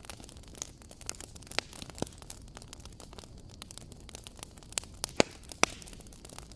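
Wood fire crackling in a fireplace: irregular sharp pops and snaps over a low steady rumble, with two louder pops close together a little after five seconds in.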